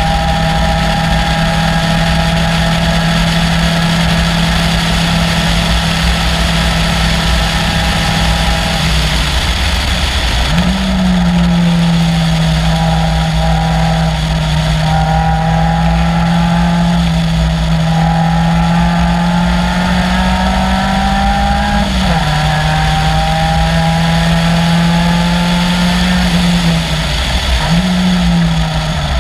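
Caterham Seven's 2.3-litre Ford Duratec four-cylinder running hard at fairly steady revs. The note drops about nine seconds in and jumps back up sharply a second and a half later. It dips again about three-quarters of the way through, and rises and falls once more near the end.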